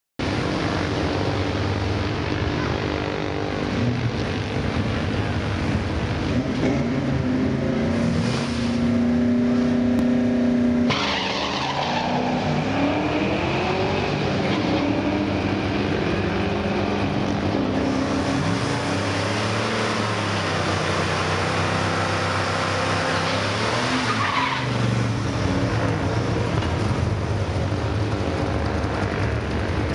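Drag-racing V8 engines, including the 1982 Chevrolet S-10 pickup's 350 small-block, running and revving hard with tyre squeal from a burnout. The engine is held at high revs, then drops off about 11 seconds in, and revs up and down again around 24 seconds.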